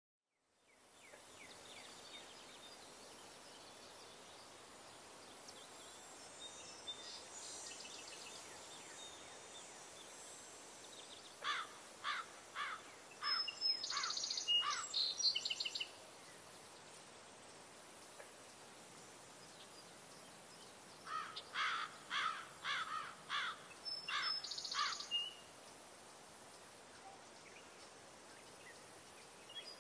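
Outdoor ambience with a bird singing in two phrases about ten seconds apart. Each phrase is a run of quick repeated notes followed by higher chirps, over a faint steady high hiss.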